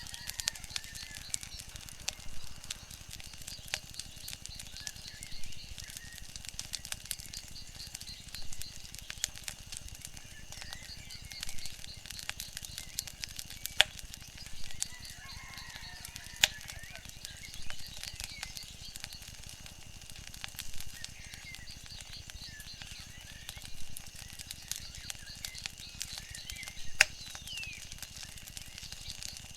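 Wood fire crackling, with frequent sharp pops over a steady low hiss, and small birds chirping faintly in the background.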